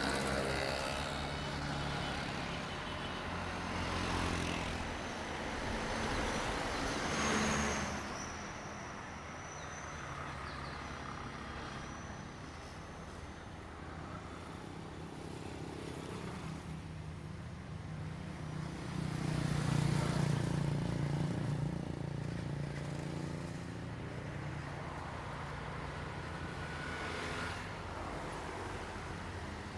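Diesel train running, its engine a steady low drone that swells louder several times, most strongly about twenty seconds in.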